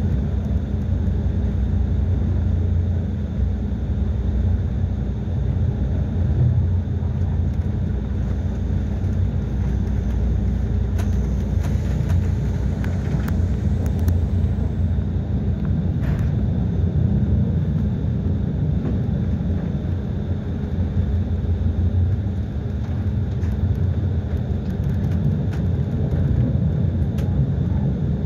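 Steady low rumble of a passenger train running along the track, heard from inside the carriage, with a faint steady high whine and a few light clicks midway.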